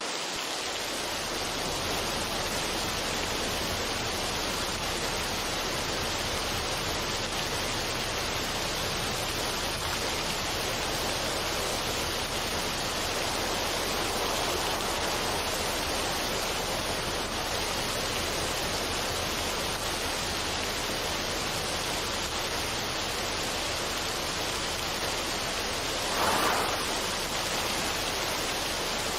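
Steady rushing noise, even and unbroken, with one brief swell about 26 seconds in.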